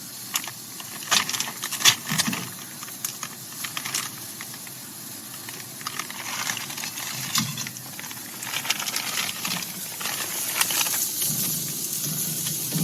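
Steaks sizzling faintly on a cast iron griddle, a steady hiss, with scattered clicks, knocks and rustles of handling throughout.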